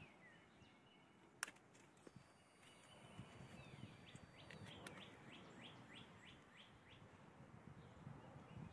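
Near silence with faint bird song: a run of quick, repeated downward chirps, about four a second, in the middle of the stretch. There is also one sharp click about a second and a half in.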